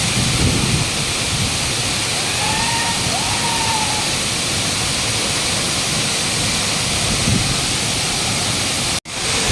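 Waterfall's falling water, a steady loud rushing noise that breaks off for an instant about nine seconds in and then resumes.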